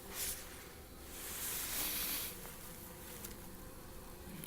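Honeybees buzzing around an opened hive, a steady hum of many bees. A short hiss of noise comes right at the start and a louder one from about one to two seconds in.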